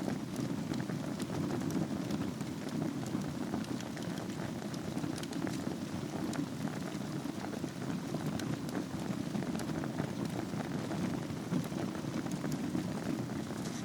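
Wood fire burning in a fireplace over glowing embers: a steady low rushing with scattered small crackles and pops.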